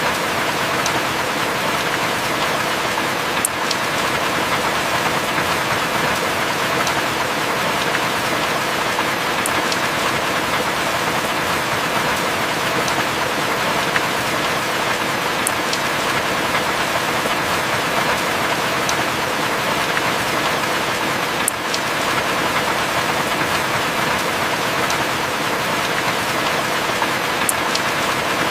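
Heavy rain falling steadily, a dense even hiss, with a small sharp tick about every six seconds.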